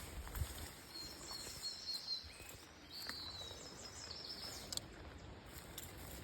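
Birds chirping: a few thin, high calls about one to two seconds in and again around three seconds, over a faint steady outdoor hush.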